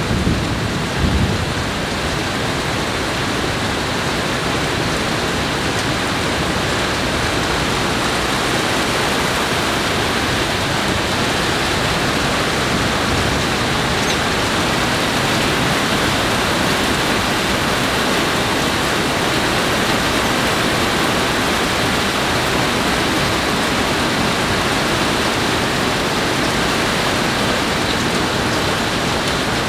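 Heavy, steady rain pouring down in a thunderstorm, with the last of a rumble of thunder dying away in the first second or so.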